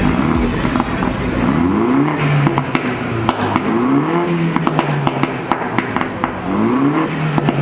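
A car engine being free-revved three times, each rev rising in pitch and then dropping back to idle, with sharp pops and clicks in between. The car still has its catalytic converter in the exhaust.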